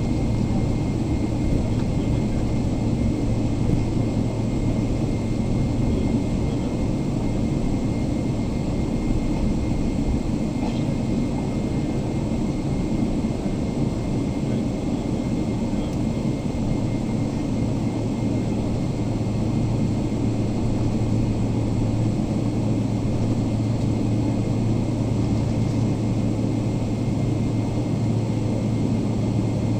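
Steady cabin ambience of a Boeing 777-300ER standing at the gate: the air-conditioning's constant rush and low hum, with a faint high whine held on one note.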